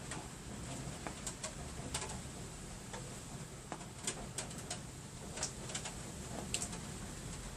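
Steady rain during a thunderstorm, with sharp, irregular ticks of drops striking a hard surface.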